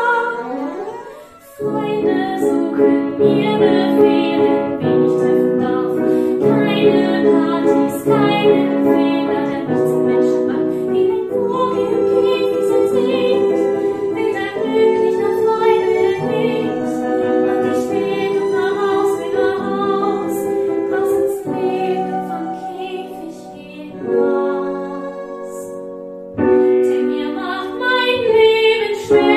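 Music: a song sung by a woman over instrumental accompaniment, with a brief drop about a second in and a quieter passage before the music comes back fuller near the end.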